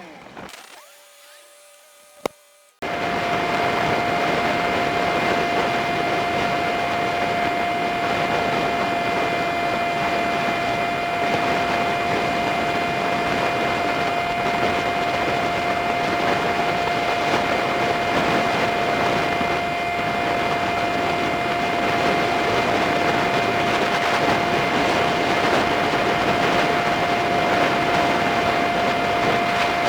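Riding noise from a Honda Super Cub 50 dashcam, played back fast: a steady, dense rush of wind and engine noise with a constant whine. It cuts in suddenly about three seconds in, after a near-quiet moment with a single click.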